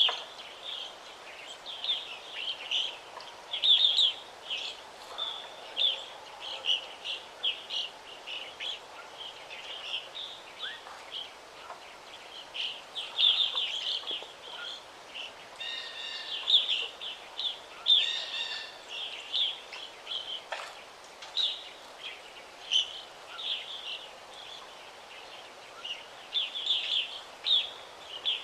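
Forest birds chirping and singing, many short high calls coming one after another, over a faint steady background hiss.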